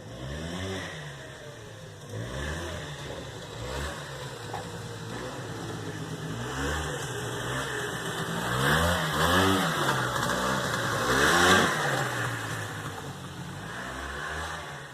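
A motor vehicle's engine revving up and falling back again and again, with a louder rush of noise swelling about nine and eleven seconds in.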